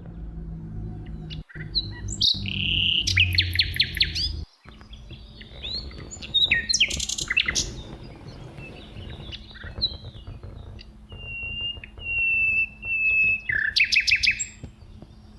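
Northern cardinal singing: three loud bursts of rapid sweeping notes, with a run of short, steady whistled notes before the last burst.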